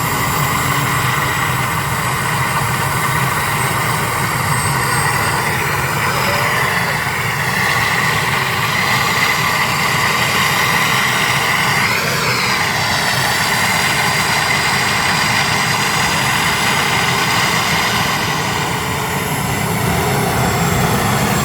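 A tractor-pull tractor's engine running loud and steady, with a brief shift in pitch about twelve seconds in.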